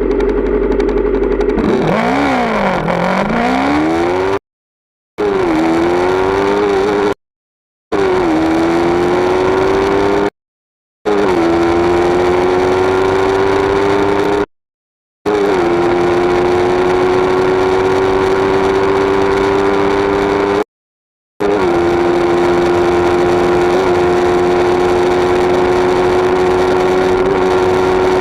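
Yamaha MT-03's 321 cc parallel-twin engine revving: the pitch swings down and up once, then is held at steady high revs that creep slowly upward. The sound is chopped by five abrupt cuts to dead silence, each followed by a brief dip in pitch before it steadies again.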